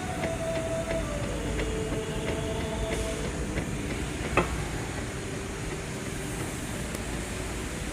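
Steering of a Chery Tiggo 8 Pro being checked for a rack-and-pinion noise: a steady whine over a low rumble, dropping in pitch a little over a second in, with light clicks and one sharp knock about four and a half seconds in.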